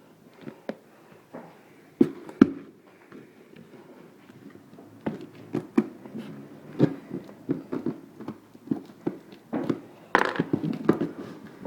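A cardboard box being cut and pried open with a knife: scattered sharp clicks and knocks, with a busier patch of handling noise near the end.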